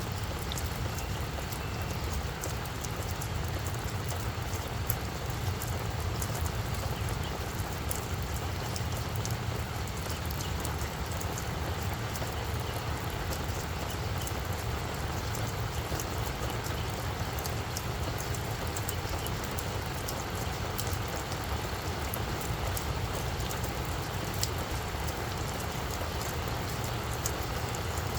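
Steady rain falling on a flower bed, with many separate drop taps over a low, steady rumble.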